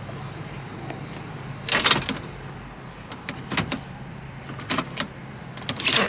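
Low steady hum of the idling 2006 Lincoln Town Car heard inside the cabin, with a few short clicks and rustles from the column-mounted gear shift and controls being handled.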